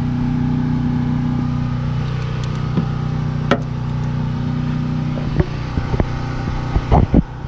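Steady low mechanical hum with a few sharp clinks of hand tools on metal brake parts, the loudest two close together near the end.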